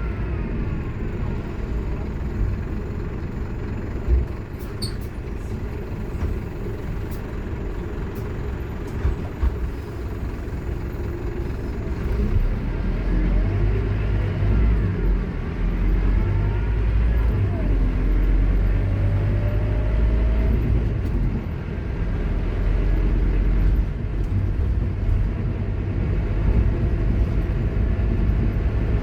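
Scania K230UB Omnilink bus driving, its engine rumbling under the loud whine of its ZF Ecomat automatic gearbox. The whole sound gets louder about halfway through as the bus pulls harder, with the gearbox whine rising in pitch as it gains speed.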